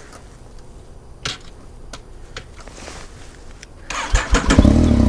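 Yamaha MT-09's three-cylinder engine on a cold start. After a few faint clicks, the starter cranks briefly about four seconds in, then the engine catches and runs steadily.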